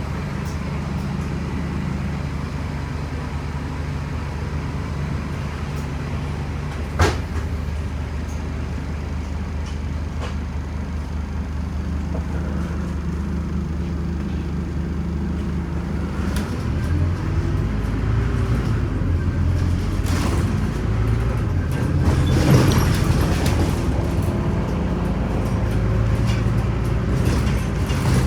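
Scania Omnicity city bus's diesel engine running steadily at low revs, then working harder from about sixteen seconds in as the bus pulls away. A sharp click about seven seconds in and a brief louder burst of noise about twenty-two seconds in.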